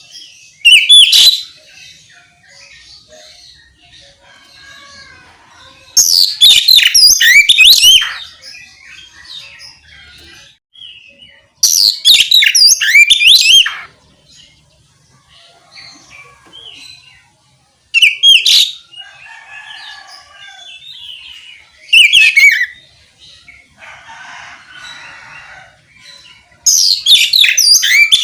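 Oriental magpie-robin (kacer) singing in six loud bursts of rapid, high whistled phrases, each about half a second to two seconds long and a few seconds apart, with softer chirps and twitters between them.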